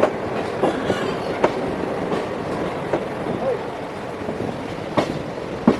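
Passenger train running, a steady rumble with irregularly spaced clacks of the wheels over rail joints.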